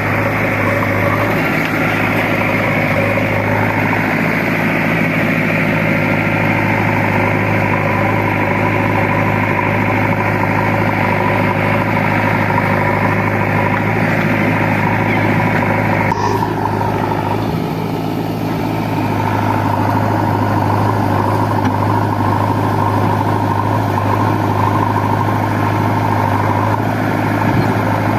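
Heavy diesel engine running steadily at a constant speed, with a brief change in its tone a little over halfway through.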